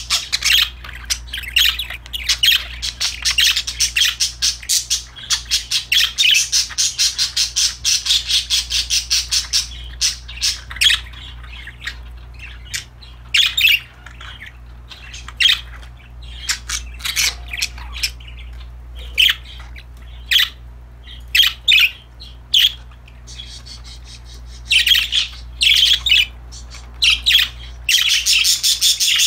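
Pet budgerigars chattering and chirping in quick, dense runs for the first third and again near the end, with sparser single chirps and squawks in between. A low steady hum sits underneath.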